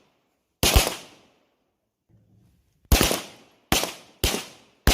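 Toy pistol firing its gunshot sound effect: a sharp bang with a fading echo under a second in, then four more shots in quick succession over the last two seconds.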